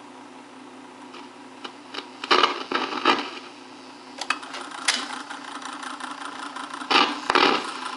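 A 1950s Masco reel-to-reel tape recorder running in playback, with a steady motor hum and hiss. The test recording plays back as almost nothing, which the owner puts down to a blown amplifier. A few short, loud knocks come about two to three seconds in, again near five seconds, and twice around seven seconds.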